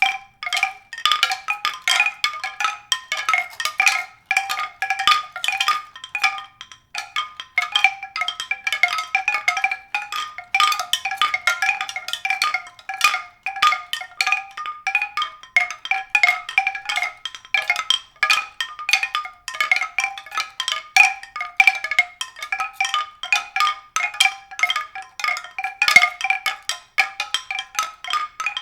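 A steady, unbroken stream of struck, ringing notes from a mallet percussion instrument, played as music.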